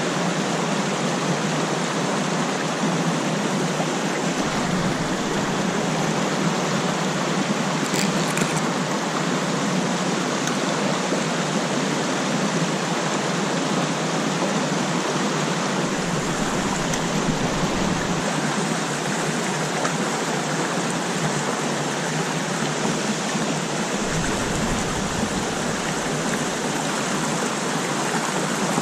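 Mountain stream water rushing steadily over rocks, a continuous even rush, with a brief high click about eight seconds in.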